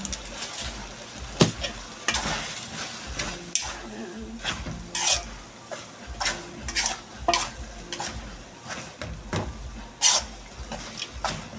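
A cooking utensil stirring a pan of chicken asado sauce thickened with cornstarch, with repeated scrapes and knocks against the pan over a steady sizzle.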